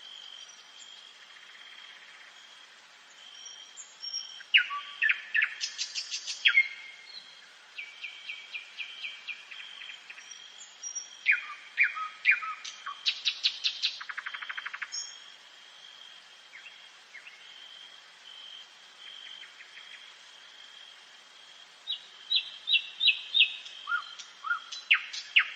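Nightingale singing in separate phrases of sharp repeated notes and fast rattling trills, with short pauses between them. A steady high thin tone runs underneath the whole time.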